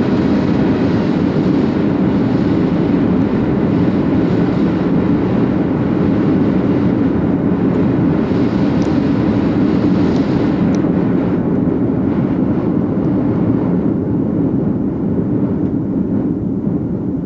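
Steady engine and airflow noise of an airliner on landing approach, heard inside the passenger cabin. The higher hiss thins out in the second half.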